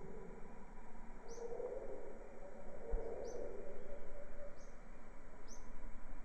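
A bird repeating a short, high, sharply falling chirp about once every second and a half, over a steady hiss of background noise.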